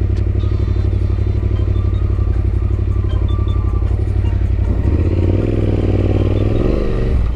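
Yamaha Ténéré 700's parallel-twin engine running steadily under way, with a change and rise in pitch about five seconds in.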